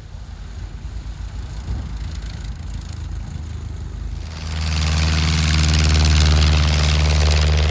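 Piston engine of a vintage light aircraft running at low power, then throttled up about four seconds in to a much louder, steady drone.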